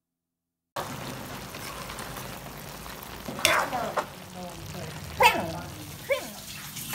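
Chicken feet sizzling in a wok as they are stirred with a metal spatula. The hiss starts shortly after the beginning, and three sharper scrapes of the spatula against the pan come about halfway through, a couple of seconds later and near the end.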